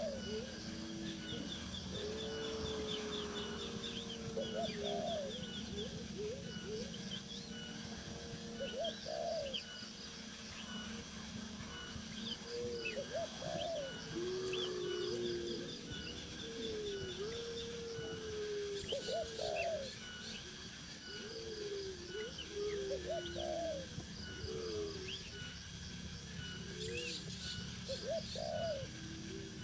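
Birds calling: many short, low calls that rise and fall, repeated every second or so and sometimes held longer, with faint high chirps over them.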